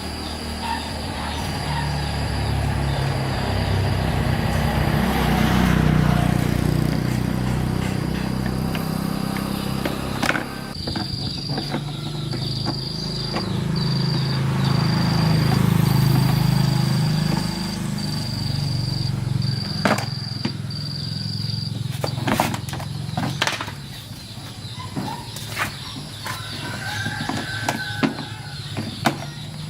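A car engine running, its sound swelling up and easing back twice, with scattered sharp clicks and knocks over it.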